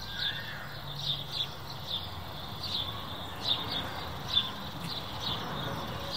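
Small birds chirping, short high chirps repeated every half second or so over a steady low background noise.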